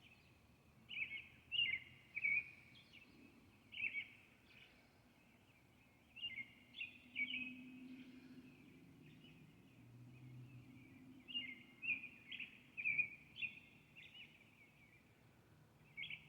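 A songbird singing in short phrases of a few quick chirping notes, repeated every second or two with gaps between, over a faint low hum.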